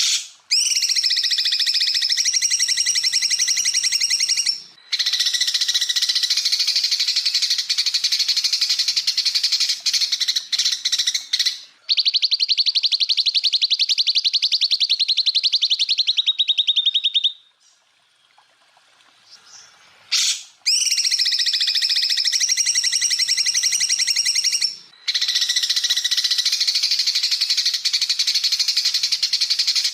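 Cucak ijo (greater green leafbird) song: long, loud bursts of rapid, high-pitched trilled notes, including a run of fast repeated notes that drops slightly in pitch at its end. After a pause of about three seconds the same phrase sequence starts again.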